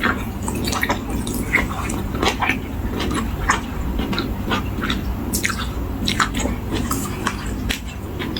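Close-up eating sounds: wet chewing and lip smacks of a mouthful of spicy seafood salad, with many irregular short clicks over a steady low hum.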